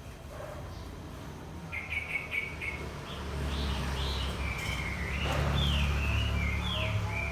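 Small birds chirping in short, quickly repeated high notes, starting about two seconds in, over a low steady rumble that swells from about three seconds in.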